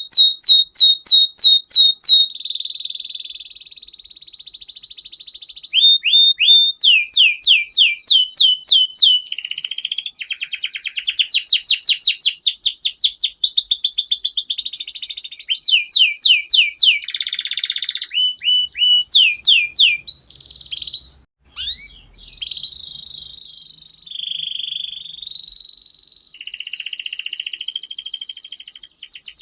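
Domestic canary in full song: fast rolls of repeated down-sweeping notes, several a second, broken up by held whistled notes and buzzy trills, changing phrase every few seconds. The song is loud and near-continuous, with a short dip about two thirds of the way through.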